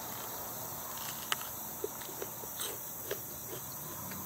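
Raw green bell pepper being bitten and chewed, several short crisp crunches in the mouth over a faint steady hiss.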